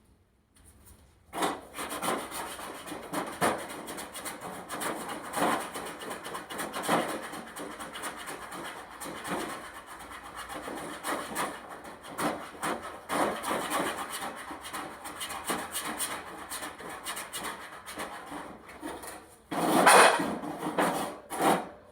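Continuous scraping and rubbing of loose dirt substrate being stirred and raked about, with a louder burst of scraping near the end.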